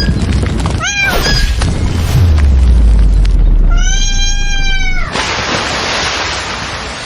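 Cat meowing: two or three short rising meows about a second in, then one long meow around four seconds in, over a loud low rumble and hiss.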